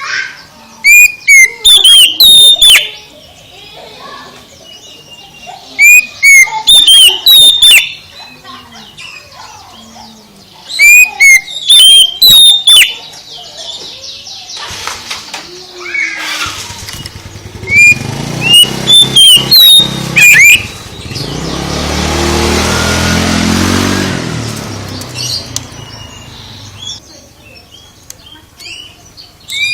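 Oriental magpie-robin singing loud, rapid bursts of sharp whistled chirps, each burst about two seconds long, four times. A low rumble with a hiss swells and fades in the second half.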